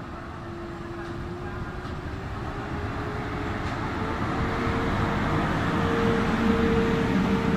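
Train running close by, growing steadily louder, with a motor whine that rises slowly in pitch as it gathers speed or draws nearer.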